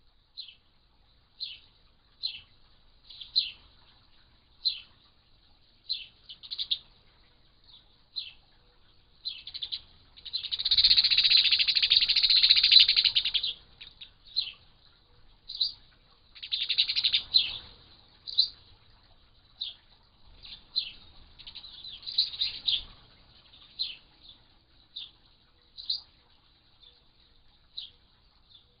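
Bird chirping in short high calls about once a second. A louder, longer run of rapid chattering comes near the middle, and two shorter runs follow later.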